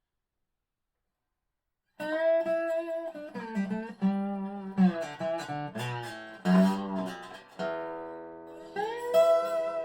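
1985 Dobro spider-cone resonator guitar played bottleneck slide in regular tuning: plucked notes and chords ring on, with notes sliding up into pitch. The playing starts about two seconds in, after dead silence.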